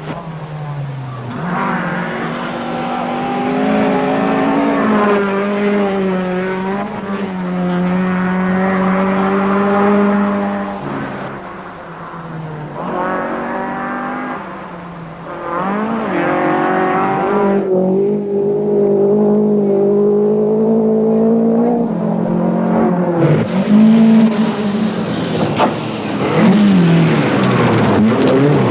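Four-cylinder 1970s rally car engine revving hard at full throttle, its pitch climbing through each gear and dropping at every shift. The sound breaks off abruptly several times between stretches.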